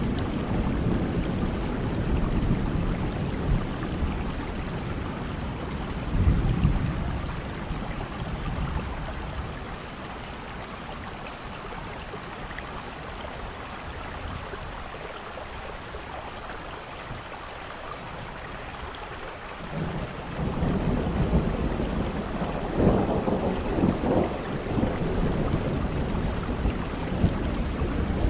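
Steady rain falling, with rolling thunder underneath. The rumble dies down about ten seconds in and comes back stronger about twenty seconds in, with a few louder peals.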